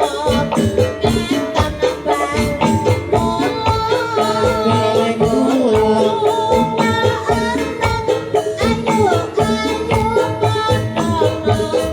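Live jaranan dangdut ensemble music: drums keeping a fast, steady beat under a sustained melody line.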